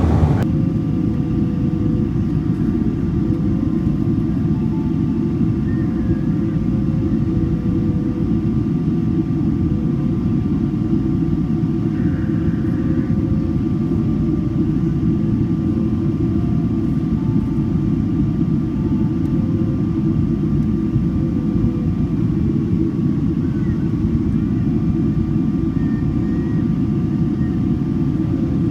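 Inside the cabin of a Boeing 777-200ER airliner in flight: a steady, deep rumble of engines and airflow, with a faint steady whine above it.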